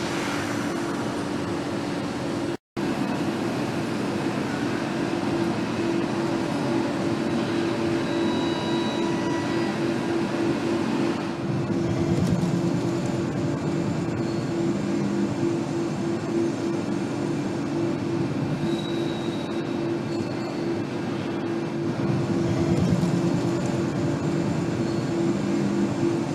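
Factory-floor machinery noise on a motorcycle assembly line: a steady mechanical rumble with an evenly pulsing low hum, and a few short high tones. The sound drops out for an instant about two and a half seconds in.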